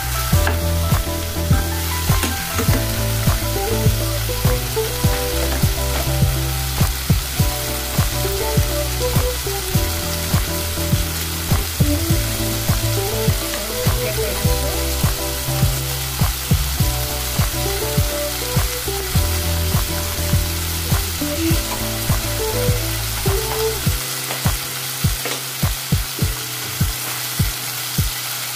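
Chicken pieces with tomato and onion sizzling as they sauté in a pot, stirred with a spatula at first, under background music with a steady beat and a bass line that drops out near the end.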